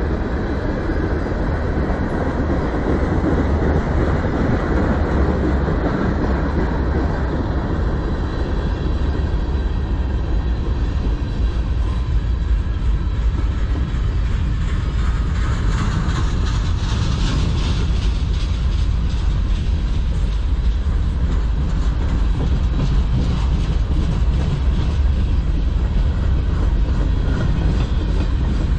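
A manifest freight train's tank cars and boxcars roll steadily past: a continuous rumble of steel wheels on rail, with clacking over the rail joints that is plainest about halfway through.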